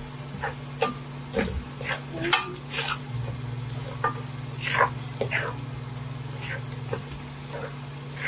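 Minced garlic sizzling in butter in a frying pan over low heat, stirred with short, irregular scrapes of a utensil against the pan, over a steady low hum.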